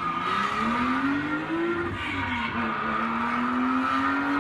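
Porsche Carrera RS 2.7's air-cooled flat-six accelerating hard. Its pitch climbs, drops at an upshift about two seconds in, then climbs steadily again in the next gear.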